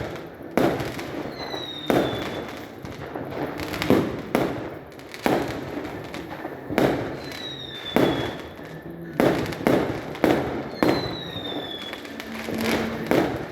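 New Year's Eve fireworks going off in a steady series of loud bangs, one every second or two, each with an echoing tail. Three short falling whistles sound among the bangs.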